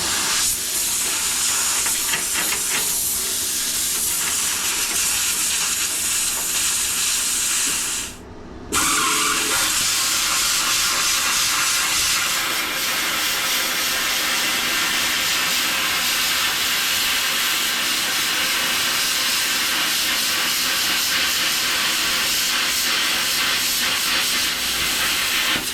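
Plasma cutter cutting steel plate, a steady loud hiss of air and arc. It cuts out suddenly about eight seconds in and strikes up again straight away.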